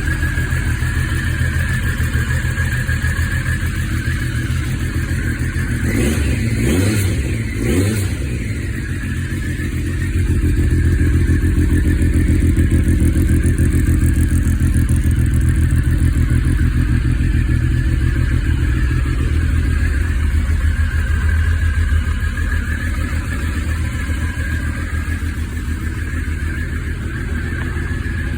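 A 1999 Triumph Daytona 955i's fuel-injected three-cylinder engine running at idle, briefly revved about six seconds in.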